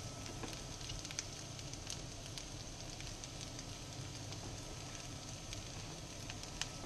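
Carrot sticks and spring onion frying in a pan over high heat: a steady sizzle with scattered small crackles and pops, one a little louder near the end.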